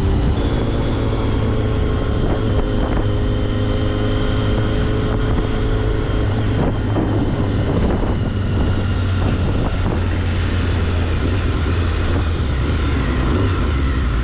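Motorcycle engine running steadily while under way, with wind buffeting the microphone.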